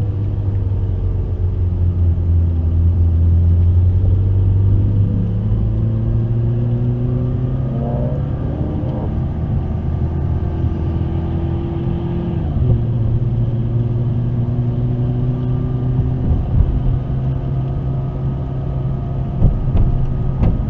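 McLaren 650S's twin-turbo V8 running at low, fairly steady revs, its pitch drifting gently and stepping down once about twelve seconds in.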